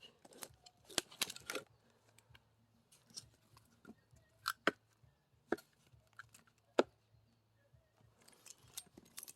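Sparse light knocks and clicks of firewood and an axe being handled between blows, with no full axe strike: a small cluster about a second in, then single taps spread over the rest.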